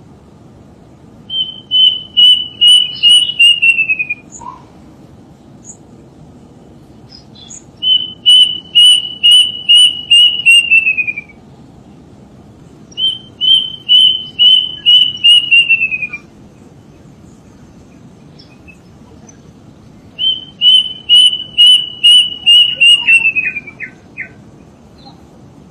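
A bird calling in four loud series of rapid repeated notes, about four a second, each series lasting about three seconds and dropping in pitch at its end. The last series ends in a few shorter, lower notes.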